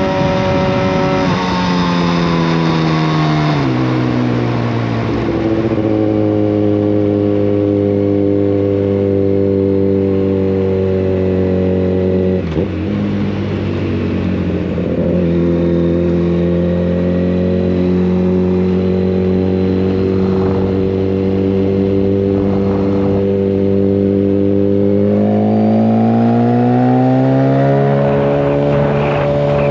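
Yamaha FZ1 Fazer's inline-four through a Mivv GP exhaust with the dB killer removed, heard from onboard while riding. The engine note drops in the first few seconds, holds a steady cruise with a brief dip about halfway through, then rises again near the end and holds at the higher pitch.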